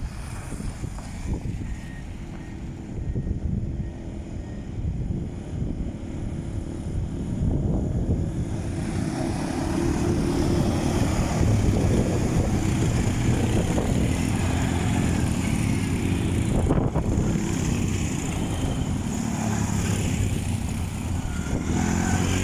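Quad bike engine running under way, with wind buffeting the microphone; the engine grows louder and steadier about nine seconds in.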